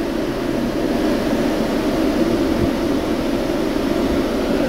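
Refrigeration unit of a Ford Transit refrigerated van running, its fans blowing a steady rush of cold air.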